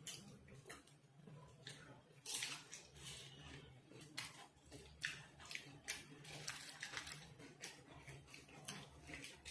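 Quiet eating sounds: chewing and small mouth clicks and smacks at irregular moments, over a faint steady low hum.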